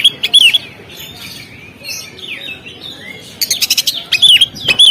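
Oriental magpie-robin singing: loud whistled phrases of sliding notes mixed with sharp short notes, coming in bursts at the start and again from about three and a half seconds in, with a quieter, softer stretch in between.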